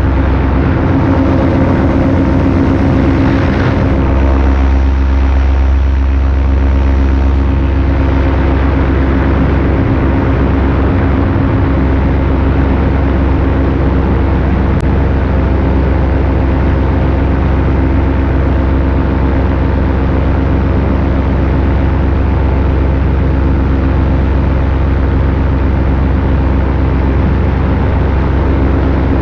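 Paramotor engine and propeller running steadily at cruise power in flight, with a slight change in tone about four seconds in.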